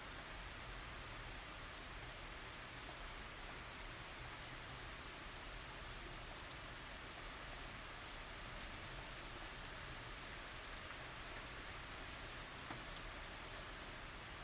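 Steady tropical rain falling on surfaces, a soft, even hiss with a dense patter of individual drops and no thunder.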